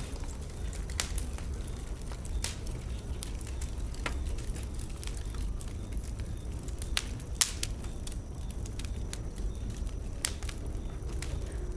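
Bonfire wood burning: irregular sharp crackles and pops over a steady low rumble, with one louder pop about seven seconds in.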